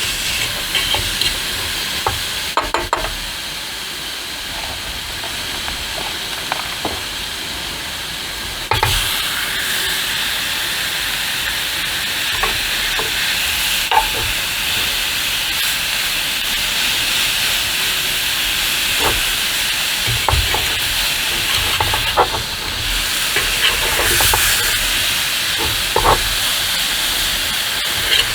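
Steady rain hissing on a tent, with scattered sharp drop ticks; the rain gets heavier about nine seconds in.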